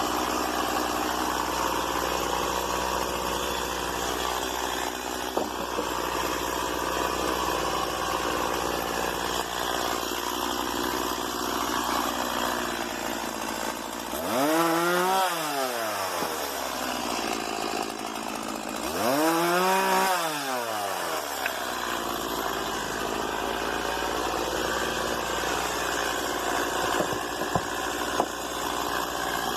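Stihl MS 170 two-stroke chainsaw running steadily, revved up and back down twice about halfway through.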